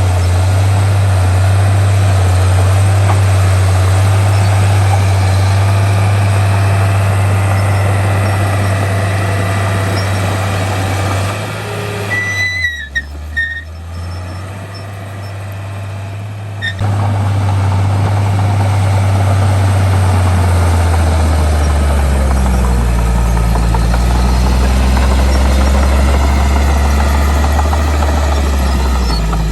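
Heavy diesel engine of earthmoving machinery running loud and steady, dropping away for a few seconds near the middle, then returning and settling to a lower pitch near the end.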